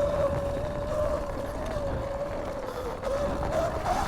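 2019 Sur-Ron Light Bee electric dirt bike riding along, its electric drive giving one steady whine that dips a little about three seconds in and climbs again near the end as speed changes, over a low rumble of wind and tyres.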